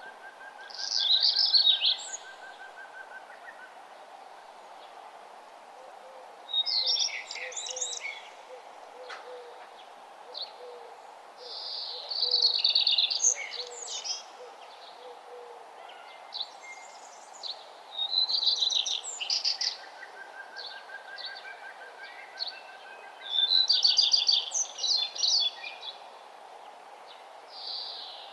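Songbirds singing in a morning chorus: a loud, rapid, warbling high song phrase repeated about every five seconds, answered by softer series of evenly spaced lower notes from other birds, over a steady background hum.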